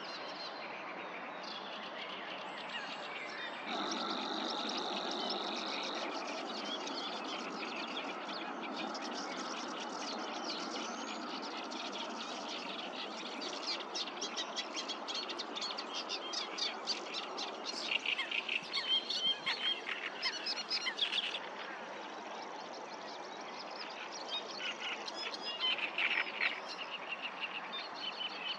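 Wild birds singing and calling: many quick chirps and trills over a steady outdoor hiss, busiest in the middle and again near the end.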